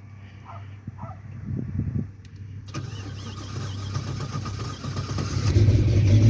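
1980 Chevrolet Malibu wagon engine cold-starting after sitting two months: it cranks briefly, catches about three seconds in and runs, getting louder near the end.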